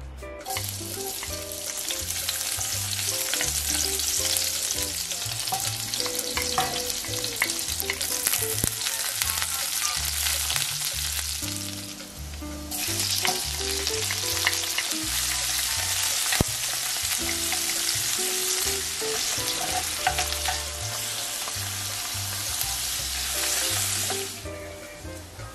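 Chopped onion sizzling in hot cooking oil in a stainless steel frying pan. The sizzle dips briefly about halfway through, then comes back strongly as raw pork belly is added. It fades near the end while the pan is stirred with wooden chopsticks.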